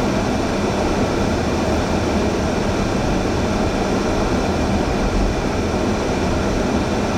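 Steady, loud rushing noise of blizzard wind and vehicle road noise, with a low hum beneath.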